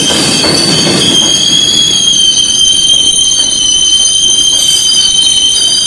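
R142 subway train's steel wheels squealing loudly on the rails: several steady high-pitched squeals held together over a low rumble that fades after about a second.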